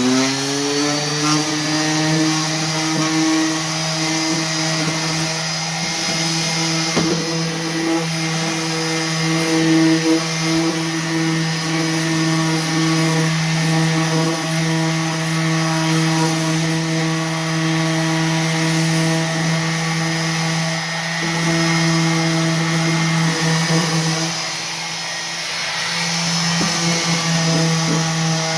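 Electric orbital sander running steadily, sanding a painted wooden drawer to distress the finish. Its hum dips briefly about four seconds before the end.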